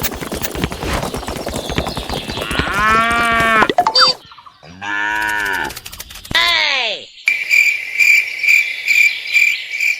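Cows mooing, several long calls that rise and fall in pitch, after a stretch of dense rattling clatter. From about seven seconds in, a rhythmic high chirping like crickets takes over.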